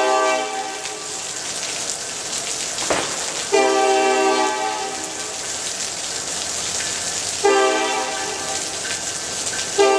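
Nathan K5LLA air horn on a Norfolk Southern SD70M-2 locomotive sounding a series of chord blasts, each a second or so long, a few seconds apart, with steady rain hiss underneath. A single sharp crack comes about three seconds in.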